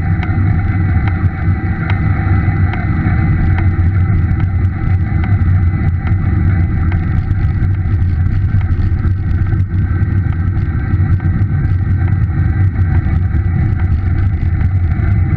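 Bosch e-bike drive motor running with a steady low hum, with a regular tapping about once a second that fades after about four seconds: the popping or tapping noise that the motor has started making.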